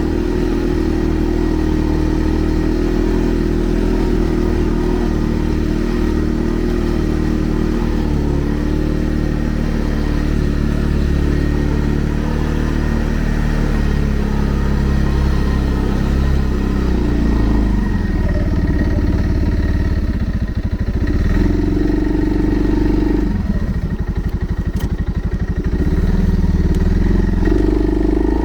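Segway Snarler 570 ATV's single-cylinder engine running while riding, steady at first, its note rising and falling with the throttle over the last ten seconds or so.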